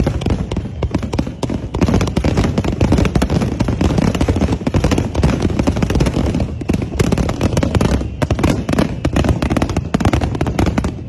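Fireworks going off in a dense barrage: rapid, overlapping bangs and crackling over a continuous low rumble.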